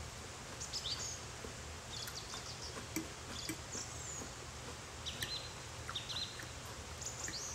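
Small birds chirping faintly now and then over a steady low hum, with a few soft clicks.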